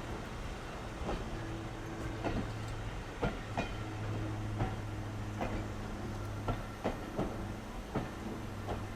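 Train running on the rails: a steady low rumble with about a dozen sharp clicks and knocks at uneven spacing.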